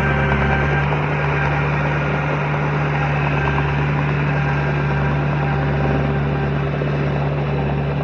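Heavy diesel engine of earthmoving machinery running steadily at work, a deep even drone with a noisy mechanical clatter over it.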